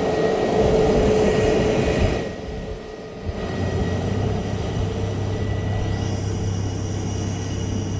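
Airbus A321 jet engines running steadily on the ground ahead of takeoff, with a held whine. The sound drops away a little after two seconds in, then settles into a lower steady hum.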